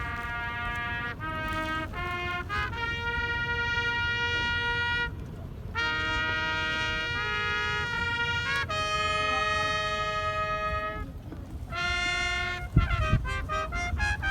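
A trumpet playing a slow call of long held notes with short breaks between them, signalling the start of the drill performance. Several heavy low thuds come near the end.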